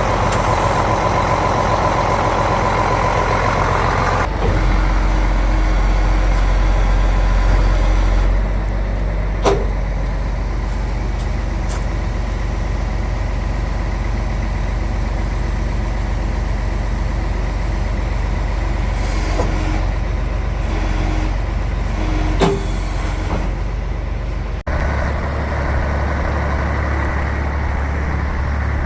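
Iveco 380E42 6x6 heavy truck's diesel engine running steadily with a low hum, with a couple of sharp clicks along the way. The sound changes abruptly about three-quarters of the way in.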